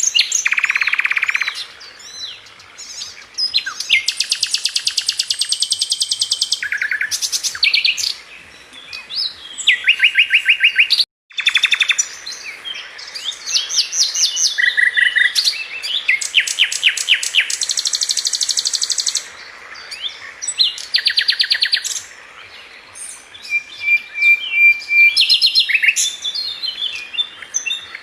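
Sikatan London flycatcher singing: a long, varied song of rapid, fast-repeated trills and sharp chirps, high-pitched, in phrases a second or two long with short pauses between them.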